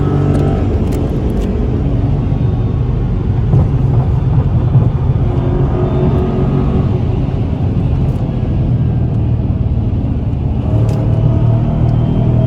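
Car engine running hard under acceleration, heard from inside the cabin, its pitch rising more than once over a steady low drone of engine and road noise.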